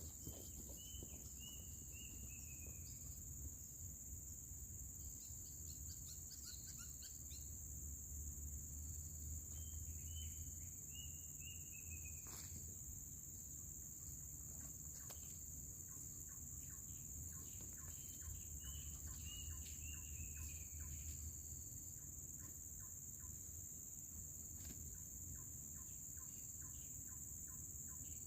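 A bird calling in runs of four to six short notes that step down in pitch, a run about every eight seconds, over a steady high drone of forest insects.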